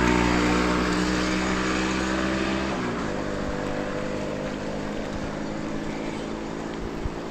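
A motor vehicle's engine passing by, loudest at first, then dropping slightly in pitch and fading out about three seconds in; an even rushing noise remains afterwards.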